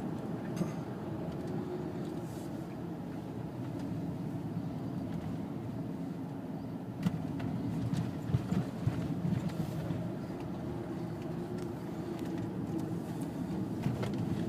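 Car interior road and engine noise while driving, a steady low rumble, with a few sharp knocks about seven to nine seconds in.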